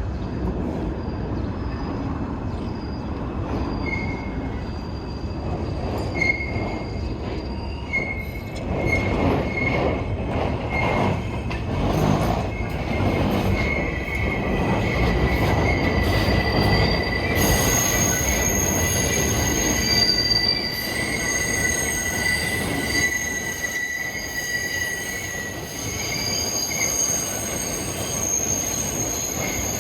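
New York City subway train running along the rails, with a steady rumble and its wheels squealing. The squeal comes in as a thin high tone a few seconds in, and higher, shriller squeal tones join about halfway through.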